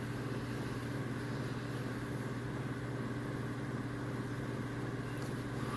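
Steady low hum of background room or equipment noise, unchanging throughout, with no other events.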